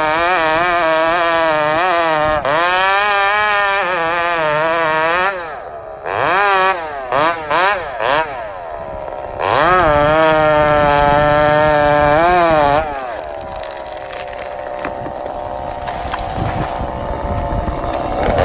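Two-stroke chainsaw running at full throttle with its pitch wavering. It drops to idle about five seconds in, gets a few quick throttle blips, and runs flat out again for about three seconds. Near the end it settles back to a steady idle.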